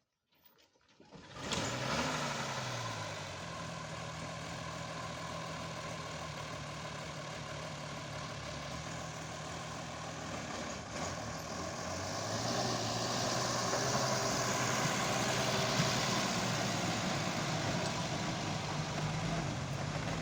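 Old military 4x4 truck's engine cutting in suddenly about a second in, then running steadily. Its speed and loudness rise from about twelve seconds in and it runs faster to the end.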